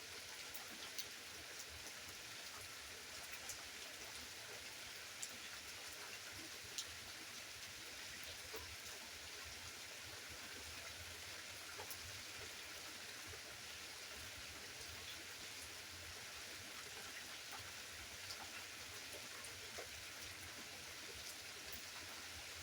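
Steady rain falling, a faint even hiss with scattered sharp drops striking close by.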